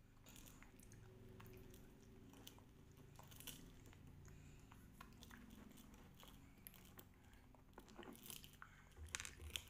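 Faint crunching and chewing of small candies, with light clicks and taps from a small plastic candy jar being handled. The clicks get louder and more frequent near the end.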